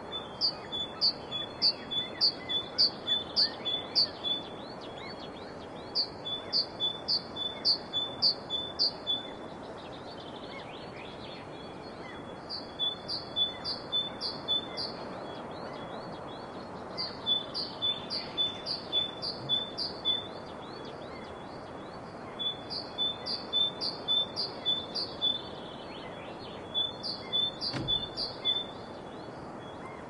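A songbird singing a phrase of eight to ten quick, repeated high notes, about two and a half a second, then pausing a second or two before the next phrase, over a steady background hiss.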